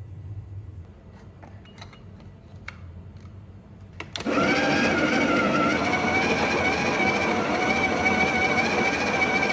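A few faint clicks and handling knocks, then a Breville Barista Express espresso machine starts abruptly about four seconds in. It runs loud and steady with a high whine and stops suddenly at the end.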